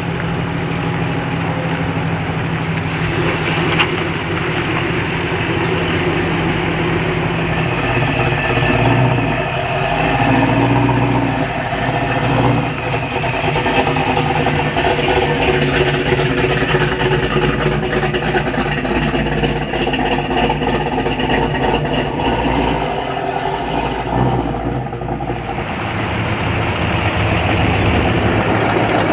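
Car engines idling and running at low speed, the exhaust notes of several vehicles overlapping and shifting in pitch every few seconds.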